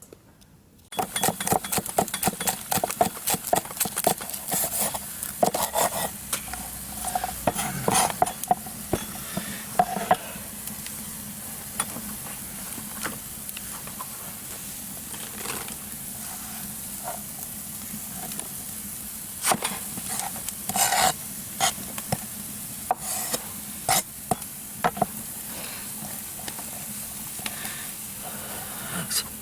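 Food sizzling in pork fat on a cast-iron cauldron lid, starting about a second in, with a metal utensil repeatedly scraping and clacking on the lid as it is stirred and turned.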